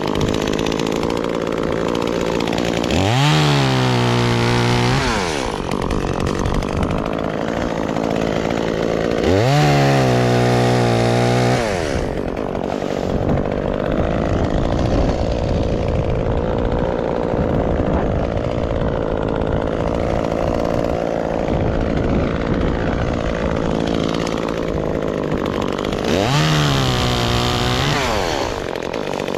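Gas chainsaw running near idle, revved up three times, each time for about two seconds before dropping back.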